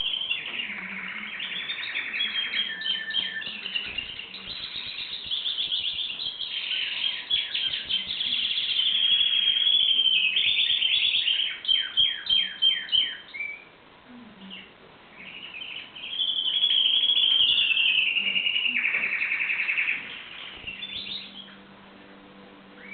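Domestic canary singing: long phrases of rapid trills and rolling repeated notes, broken by a short lull about halfway through, then a second loud phrase, and softer notes near the end.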